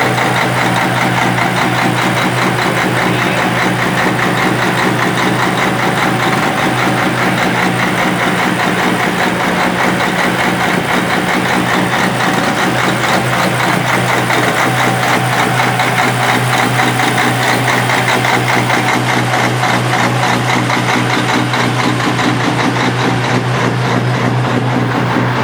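Diesel engine of a big-rig semi truck idling steadily.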